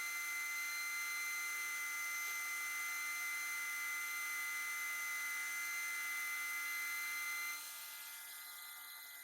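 Small high-speed rotary tool (mini drill) running with a steady high whine. Its level drops and its pitch shifts about three-quarters of the way through.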